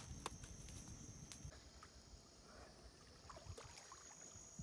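Near silence, with a faint steady high-pitched insect drone, like crickets, and a few light clicks.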